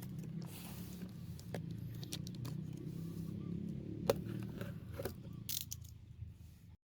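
Cardboard case of Hot Wheels cars being handled and opened: scattered clicks, knocks and short rustles over a low steady hum, cutting off just before the end.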